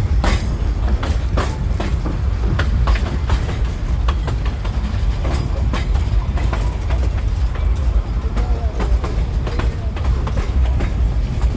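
Narrow-gauge steam train running along the track: a steady low rumble with irregular clicks and clacks from the wheels and carriages.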